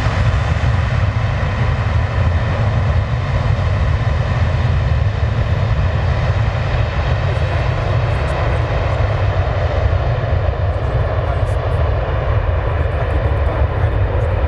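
Jet airliner taking off, its engines a loud, steady rumble with a high whine on top that slowly fades.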